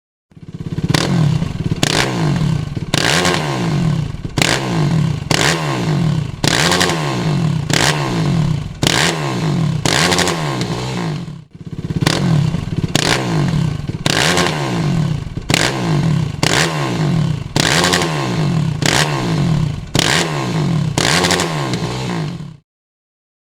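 Yamaha YFZ450R quad's single-cylinder four-stroke engine breathing through a Dominator MX muffler, revved in short throttle blips about once a second, the pitch rising and dropping back with each blip. There is a short break about halfway through before the blipping carries on.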